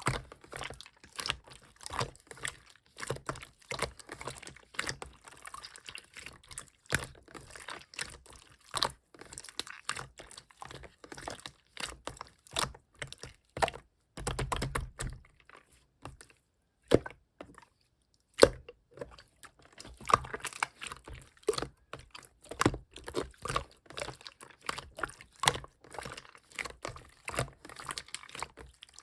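Hands squishing and stretching clear slime, making a steady run of sticky clicks and small wet pops. There is a silent pause of about two seconds a little past the middle.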